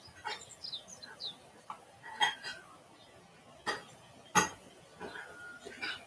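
Small birds calling in short, quick falling chirps, with three sharp clicks spread through the middle.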